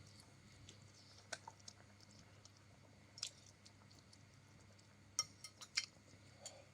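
Someone chewing egg noodles softly, with scattered small wet clicks and a quick run of sharper clicks about five seconds in, over a low steady hum.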